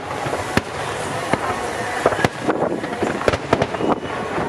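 Aerial firework shells bursting: a run of sharp bangs about once a second, with several coming close together past the middle, over a continuous noisy background.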